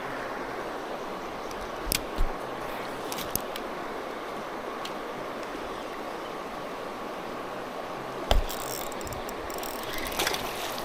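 Steady rush of fast river current over a shoal, with a few sharp knocks and a patch of rapid clicking near the end, the sounds of fishing tackle being handled in a kayak.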